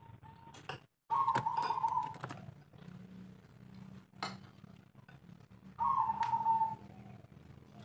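Spotted dove (tekukur) cooing: two coos about a second long, the first about a second in and the second near six seconds in, over a steady low hum with a few sharp clicks.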